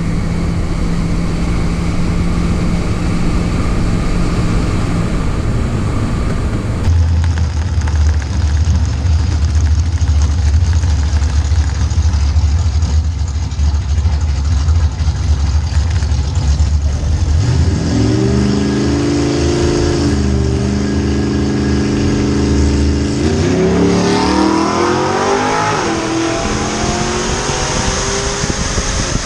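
Car engine at a drag strip: a low steady rumble, then the engine revs up and holds its pitch as if at the line, and late on the pitch climbs steeply as the car launches and accelerates hard.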